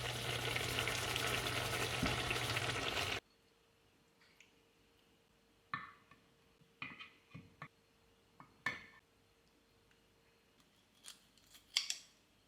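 Food sizzling and frying in a hot pan for about three seconds, cut off suddenly. Then quiet, with a few scattered light clicks and taps, the sharpest near the end.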